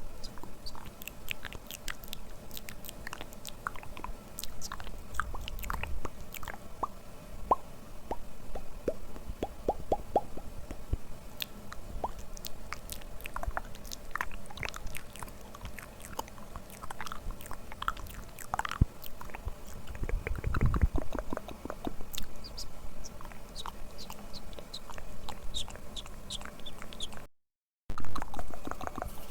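ASMR mouth sounds: a continuous run of small clicks, pops and smacks of lips and tongue. A break to silence of about half a second comes near the end.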